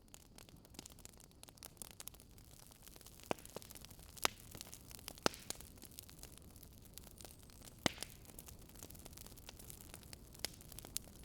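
Wood fire crackling: irregular sharp pops and snaps over a soft steady hiss, with a handful of louder snaps scattered through.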